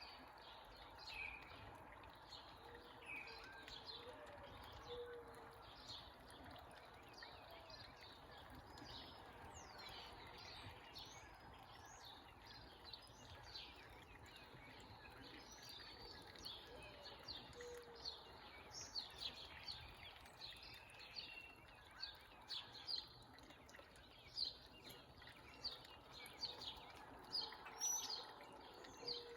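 Small birds chirping and calling, many short high chirps and quick downward notes, busier in the second half, over a faint steady hiss.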